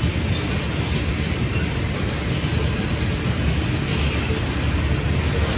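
Railroad cars rolling steadily past on the track, a continuous low rumble with no break or change.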